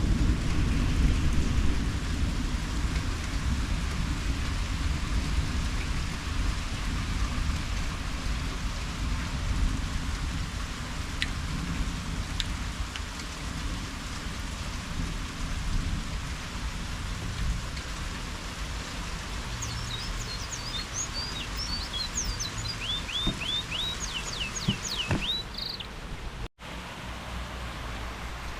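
Steady summer rain falling, with a low rumble of thunder that fades over the first several seconds. About two-thirds of the way in, a bird sings a quick series of high chirps and down-slurred notes, and near the end the sound drops out for an instant.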